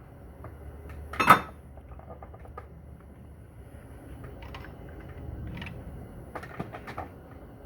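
Metal parts of a Corvair Powerglide transmission clanking as it is taken apart: one loud clank about a second in, then several lighter knocks and clicks.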